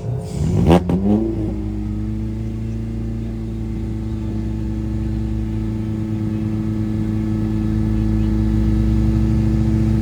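Car engine revving a few quick times, then held at a steady speed with an even, unchanging pitch that slowly grows louder.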